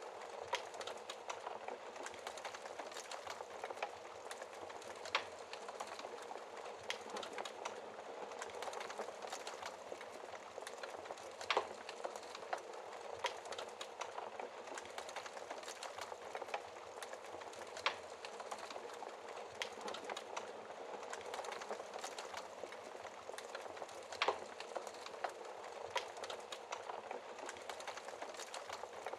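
Wood fire crackling, with irregular sharp pops over a steady hiss of rain.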